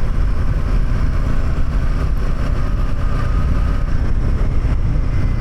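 Motorcycle riding at a steady speed: the engine runs evenly under a constant low rush of wind on the microphone.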